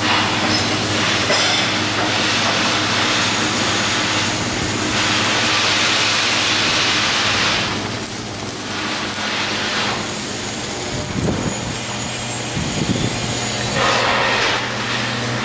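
Shipyard work noise: a steady machine hum runs under stretches of hissing that swell and fade, with a few irregular knocks about two-thirds of the way in.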